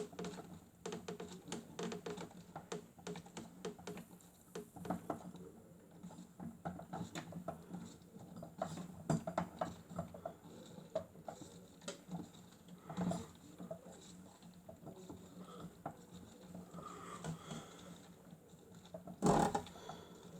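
Miele W1 toy washing machine running, its small motor humming steadily under a stream of irregular light pattering and clicking as the drum turns its load, with a couple of louder knocks, the loudest near the end.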